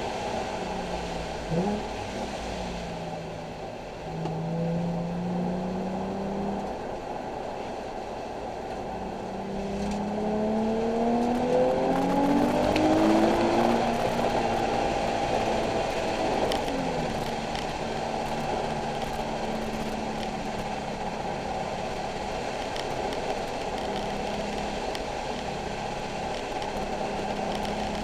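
Nissan 370Z's 3.7-litre V6 under hard driving: its pitch dips briefly near the start, holds, then climbs for several seconds under acceleration around the middle before settling back to a steadier note.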